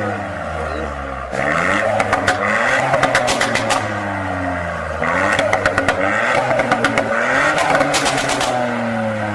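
Ford Fiesta ST MK8's 1.5-litre turbocharged three-cylinder engine, with a Milltek valved cat-back exhaust, revved hard three times while standing. Each time the revs fall, the exhaust crackles with rapid pops and bangs on the overrun.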